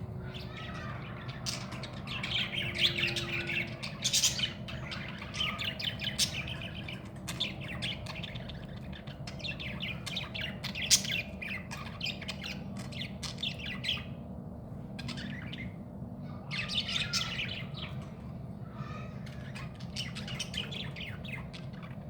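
Budgerigar calling, with bursts of chirps and squawky chatter broken by short pauses, over a steady low hum.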